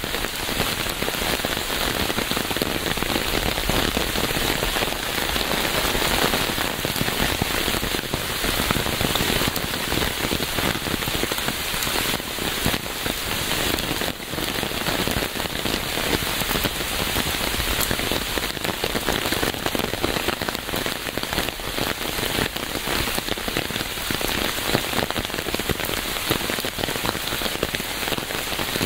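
Steady rain falling, a dense, even hiss of many drops striking a surface, with no let-up.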